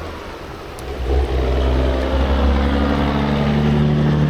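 A motor vehicle's engine running, its steady hum growing louder about a second in, over a constant rush of noise.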